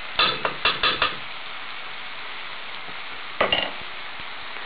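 Small potatoes and onions frying in a pot with a steady sizzle, while a utensil stirs and scrapes against the pot in about five quick clinking strokes in the first second and again briefly about three and a half seconds in.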